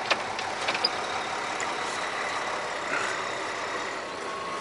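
Tractor-trailer's diesel engine running steadily at low speed while the rig is reversed, with a few light clicks in the first second.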